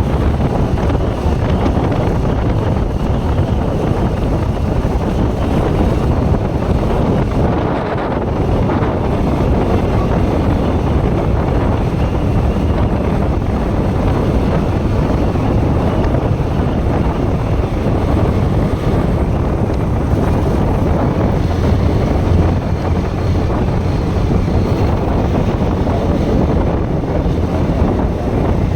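Steady wind rushing over the microphone of a moving motorcycle, a Bajaj Pulsar NS160, with the engine and road noise underneath.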